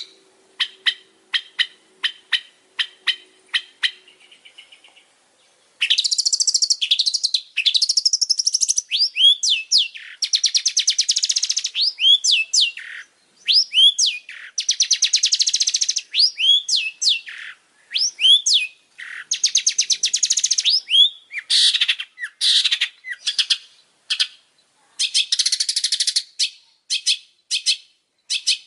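Long-tailed shrike singing vigorously: a string of short, sharp notes about two a second for the first few seconds, then, after a brief pause, a fast, dense run of rattling trills broken by sweeping whistled notes.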